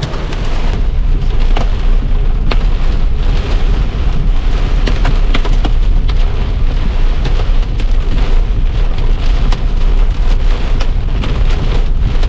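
Hail and heavy rain pelting the vehicle: a dense, loud patter of many sharp ticks over a steady low rumble.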